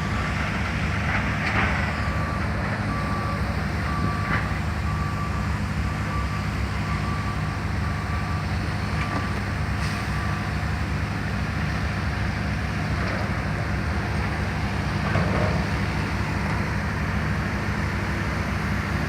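Construction-site heavy machinery running steadily, with a vehicle's reversing alarm beeping about once a second through the first half and then stopping. A few short clanks are heard.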